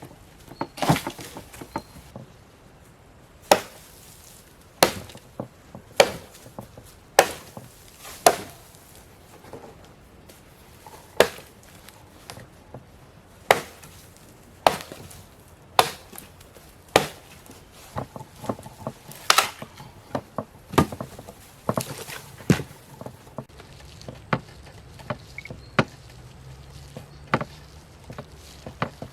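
Chopping strikes on wood, single sharp blows about one a second for much of the time, then lighter, quicker irregular knocks near the end.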